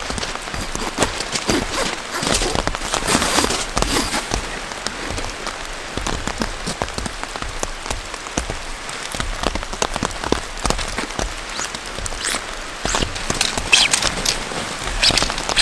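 Heavy rain falling steadily, with many separate drops striking close by in sharp ticks, a few heavier spells of drops along the way.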